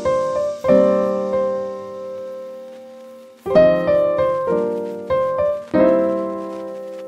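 Piano chords struck and left to ring out, a few slow chords with a pause between them.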